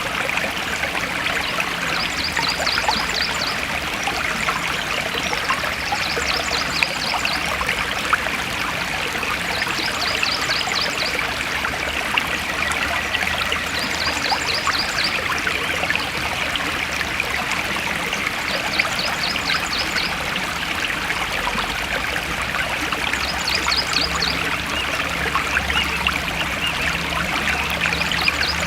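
Forest stream flowing and trickling steadily over stones. A short, high, rapid trill repeats about every four seconds.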